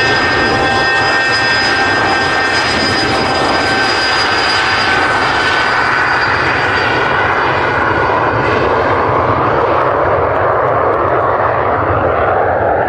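Hawker Beechcraft 400XP business jet's twin turbofan engines at take-off power: a loud high whine over a rushing roar. The whine slides slightly lower and fades about halfway through, leaving the rushing roar, which swells near the end.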